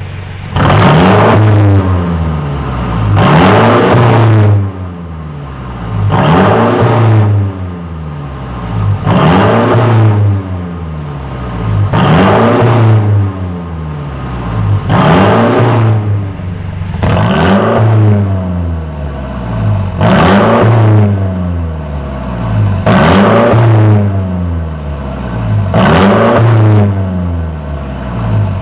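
Mercedes-Benz C200 Cabriolet's tuned exhaust (mid-pipe and rear-section tuning) as the engine is free-revved again and again, about eleven blips each rising and falling back to idle every two to three seconds. The exhaust tone is deep and heavy, the sound the tuning was set up for.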